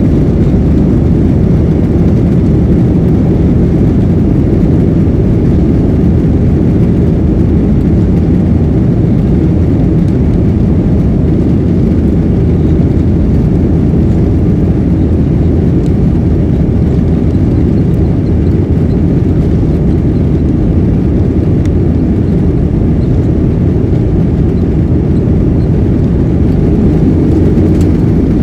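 Aircraft engines and airflow during takeoff: a loud, steady low rumble that holds even throughout.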